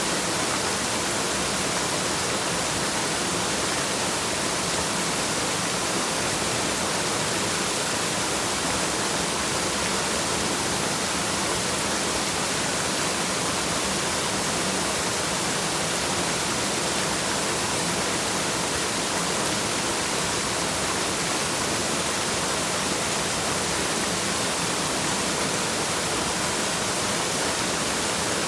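Waterfall: a steady, unchanging rush of falling water, mostly high hiss with little low rumble.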